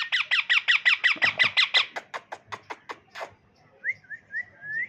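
Baby parrot giving a rapid run of short squawky chirps, about ten a second, that fades out after about two seconds and is followed by one louder call. A few short rising whistles come near the end.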